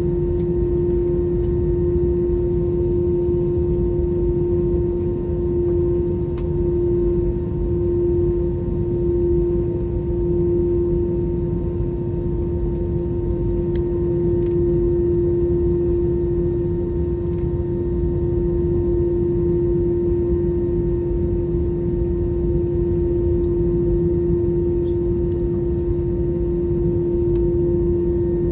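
Cabin noise of an Airbus A321 taxiing, its two CFM56 engines at idle: a steady hum with one strong constant tone over a low rumble.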